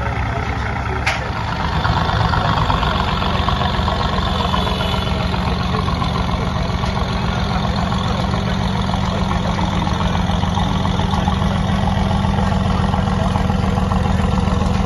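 Mercedes-AMG GT C Roadster's twin-turbo V8 idling steadily as the car creeps off a car transporter's ramp, getting a little louder about two seconds in.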